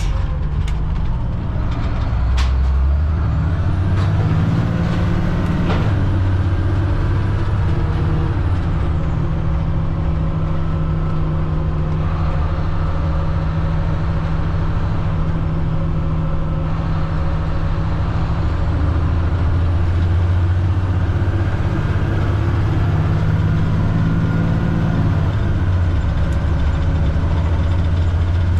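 Caterpillar C7 diesel engine of a Blue Bird All American bus running under load while driving. Its pitch climbs and holds twice, with a faint high whistle rising and falling alongside. There are a few sharp clicks in the first couple of seconds.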